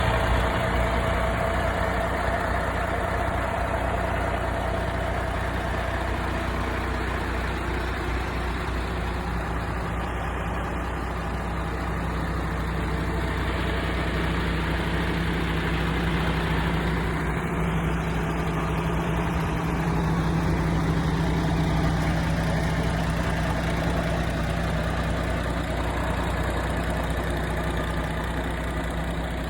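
MAN TGX 18.460 tractor unit's 12.4-litre inline-six diesel idling steadily.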